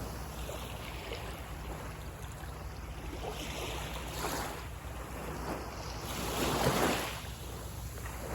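Small sea waves washing onto a beach, a steady surf hiss with a wave breaking about four seconds in and a louder one near seven seconds.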